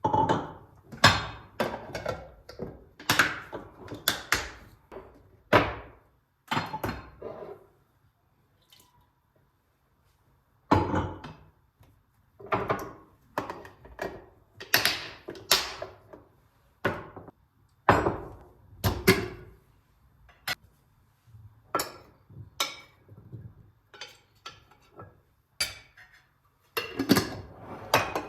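A string of separate knocks, taps and clinks from kitchenware being handled and set down, some with a short ring like dishes or glass, in uneven bursts with a few quiet pauses, the longest about eight seconds in.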